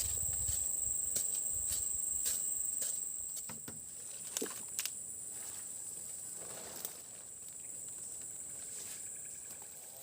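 Steady high-pitched insect drone, with scattered sharp clicks and rustling in the first half.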